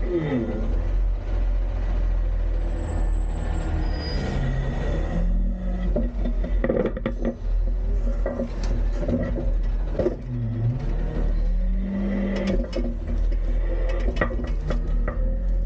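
Autocar-Heil front-load refuse truck running, its diesel engine's pitch rising and falling, with scattered sharp knocks and clanks.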